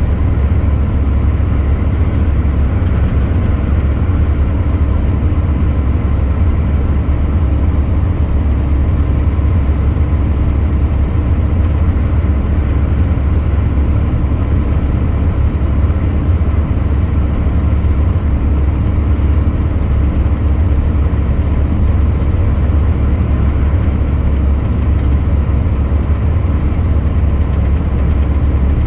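Heavy truck driving at a steady pace: an even, unchanging low engine drone with road noise, and no gear changes or other events.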